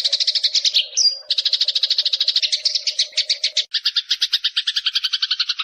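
Eurasian tree sparrows chattering: a fast, even run of chirps, about a dozen a second, broken by a short high whistle about a second in. A little under four seconds in the chirps change to a lower, fuller pattern.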